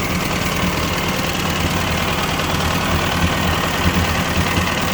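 1957 Ford 841 tractor's four-cylinder gasoline engine running steadily at a low idle on a replacement carburetor.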